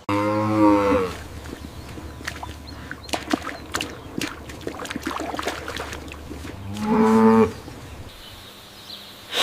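A cow mooing twice: a call about a second long at the start and a shorter one about seven seconds in, with scattered clicks and a steady low hum between them.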